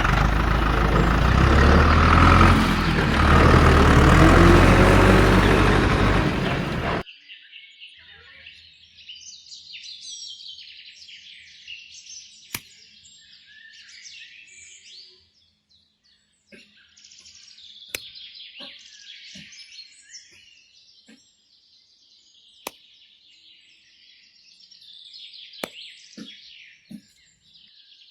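An engine running loudly for about seven seconds, then cutting off abruptly. After that, birds chirping steadily, with a few sharp clicks.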